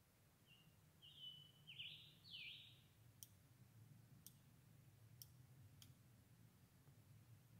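Near silence with a songbird singing one short phrase of falling notes, then four faint sharp clicks about a second apart.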